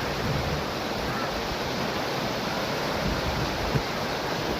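Steady, even rush of a river flowing beside the trail, with some wind rumbling on the microphone.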